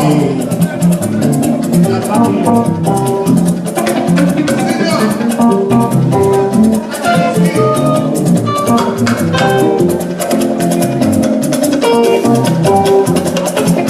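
Instrumental band music: a fast, steady shaker rhythm under a melody of short notes and a bass line.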